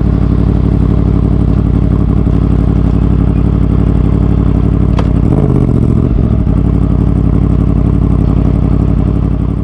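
Yamaha MT-10's crossplane (CP4) inline-four engine running steadily, its exhaust decatted and straight-piped, with a single sharp click about five seconds in and a brief change in the low engine tone just after.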